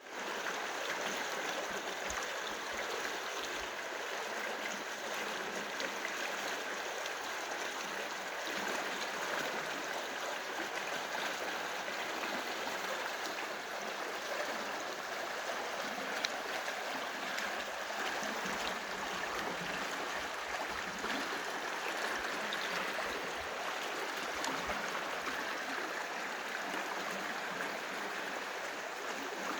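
A stream of running water flowing steadily, an even rushing sound.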